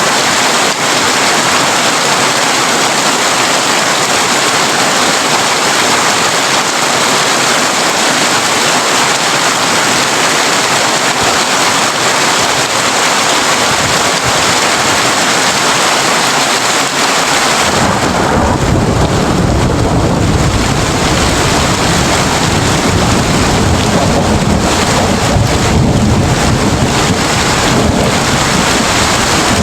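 Heavy rain drumming steadily on a tin roof. About two-thirds of the way through, a deep rumble of thunder comes in and rolls on to the end under the rain.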